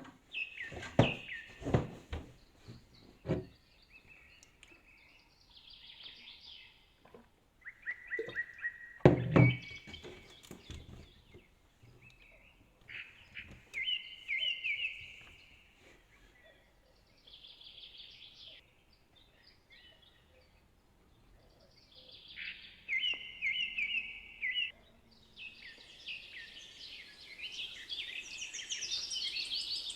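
Songbirds singing in short, repeated chirping phrases, with gaps between them, building to a denser chorus near the end. Several loud thumps come in the first few seconds and again about nine seconds in.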